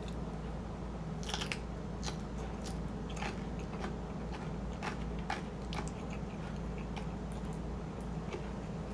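Close-miked chewing of shrimp chili with rice: a string of sharp, irregular mouth clicks and bites over a steady low hum.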